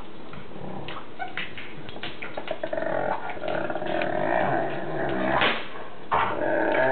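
A dog whining and growling in drawn-out, wavering sounds from about three seconds in, after a scatter of short clicks.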